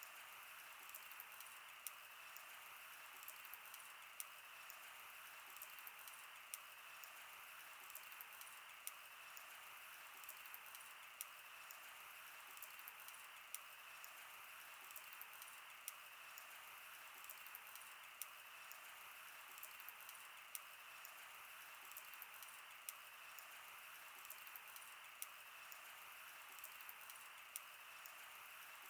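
Wood campfire burning: a steady soft hiss with frequent small crackles and a sharper pop every second or two.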